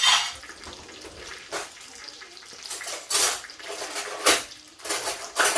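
Kitchenware clattering: pots, plates and utensils knocking together in a handful of sharp clinks and knocks spread across a few seconds.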